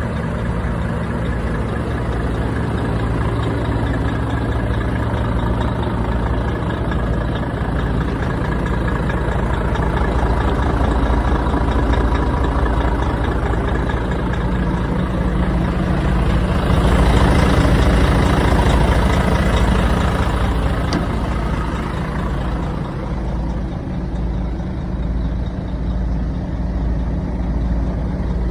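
Volvo FH540 truck's diesel engine running steadily at idle. About two-thirds of the way through it gets louder for a few seconds with a rushing hiss over it, then settles back.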